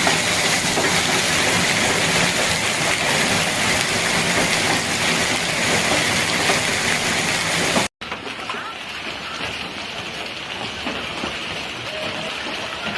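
Hailstorm: a dense, steady hiss of hail and rain striking surfaces. It cuts out for an instant about eight seconds in and comes back quieter.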